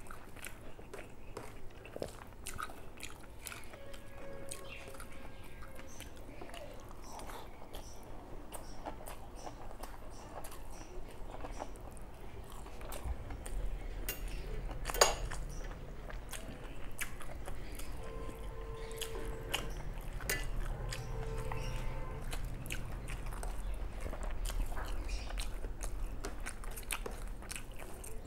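Close eating sounds: a person chewing and biting mouthfuls of rice and curry with small wet clicks and light crunches of fried food. One sharp click about halfway through is the loudest sound.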